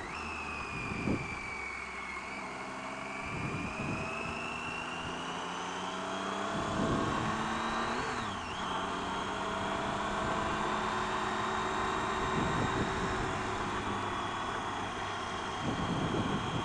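Triumph Tiger 800 XRt's inline three-cylinder engine running while riding at low speed, its pitch rising and dropping back several times with the throttle and gear changes.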